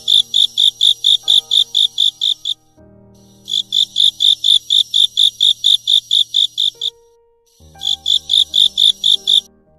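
Cricket chirping: rapid, evenly spaced high-pitched pulses, about six a second, in three runs broken by short pauses around the third and seventh seconds.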